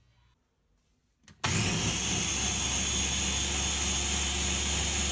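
A loud motor switches on abruptly about a second and a half in and runs steadily at an even pitch, a constant low hum under a hiss.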